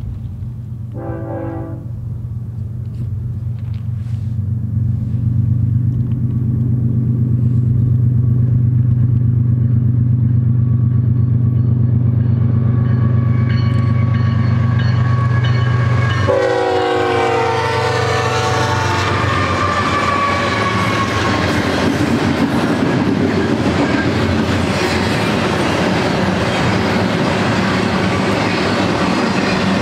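BNSF double-stack intermodal train led by GE ES44C4 diesel locomotives: the locomotives' engine drone grows louder as they approach, with a short horn blast about a second in. At about the middle the horn sounds again as the locomotives pass, its pitch dropping. After that, a steady rumble and clatter of the double-stack well cars rolling over the rails.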